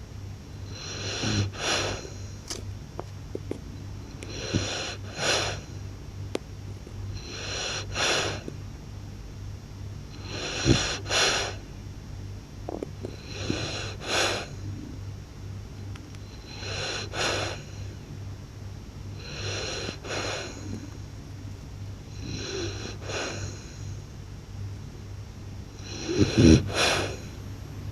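Blue French bulldog snoring loudly in its sleep: each breath gives a pair of noisy snores close together, repeating about every three seconds, with the loudest pair near the end. The snoring is typical of a flat-faced breed's short, narrow airway.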